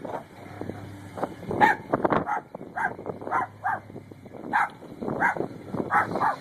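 Dog barking repeatedly, a run of short barks about every half second. A faint steady low hum lies under them.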